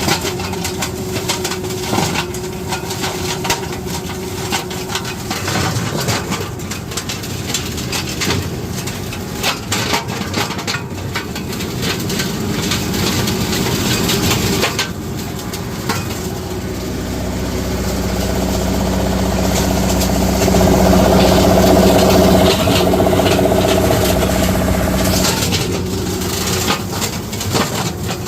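Tractor engine driving a PTO-powered flail mower, shredding citrus prunings and grass, with many sharp clicks from the cut material. The engine and mower grow louder for several seconds past the middle.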